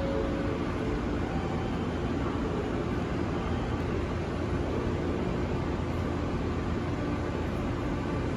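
JR Kyushu 883 series limited express train running, a steady rumble with a faint hum.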